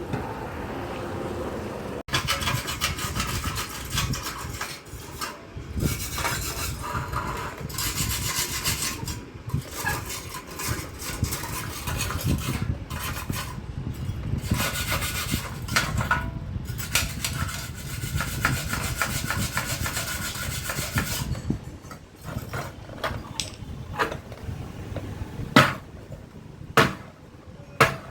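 Hand scraping and rasping on the inside of a cut-open two-stroke scooter exhaust, a metal tool working out hardened carbon deposits in quick irregular strokes. Near the end the scraping stops and gives way to a few sharp metal knocks.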